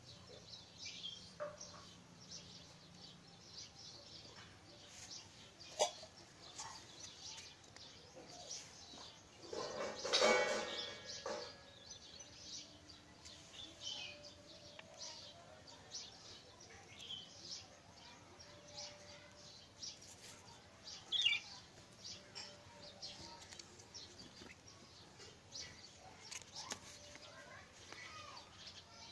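Small birds chirping on and off, short high calls scattered throughout. About ten seconds in there is a louder burst of noise lasting a second or so, and there are a couple of sharp clicks.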